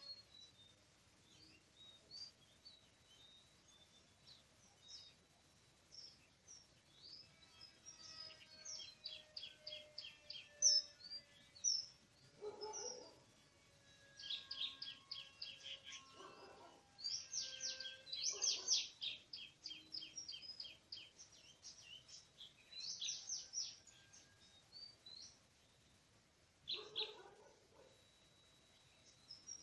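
Oriental magpie-robin chirping and singing: sharp, high notes and quick runs of repeated chirps come and go, with a few lower, harsher calls among them.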